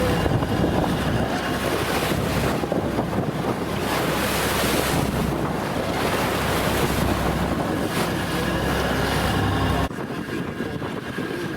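Ferry boat under way in choppy water: engine running under the rush of waves against the hull, with wind buffeting the microphone. The loud wash drops away suddenly near the end.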